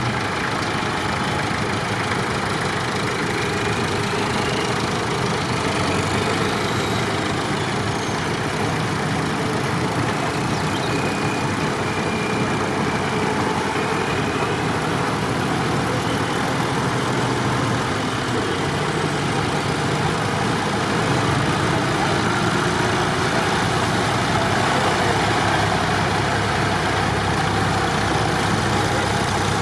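Tractor engines running steadily, getting slightly louder about twenty seconds in.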